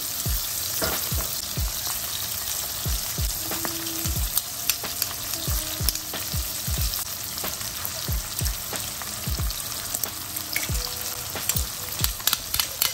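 Asparagus frying in butter and oil in a nonstick pan: a steady sizzle with scattered small pops and soft low thumps.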